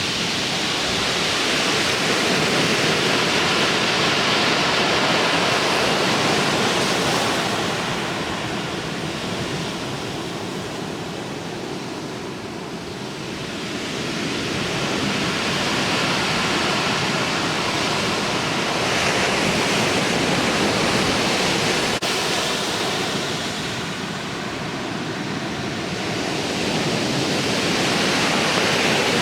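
Ocean surf breaking and washing in from a typhoon's leftover swell, a continuous rush that swells and eases in slow surges roughly every ten seconds.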